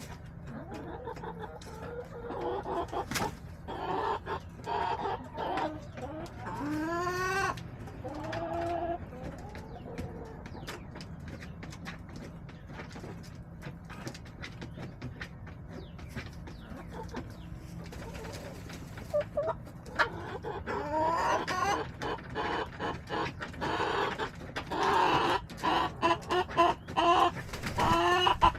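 Backyard hens clucking and calling, with a few drawn-out calls about seven seconds in and a busier run of short, quick clucks in the last third.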